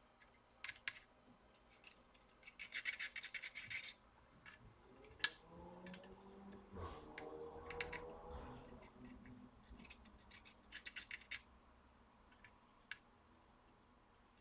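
Faint clicks and scratchy scraping of small metal tools working at a laptop's power jack on the board, with two short runs of rapid ticking. A faint hum rises and falls in the middle.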